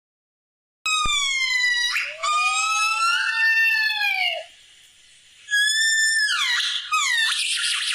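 A run of drawn-out, high-pitched animal cries, four or five of them, each about a second long, with gliding and wavering pitch.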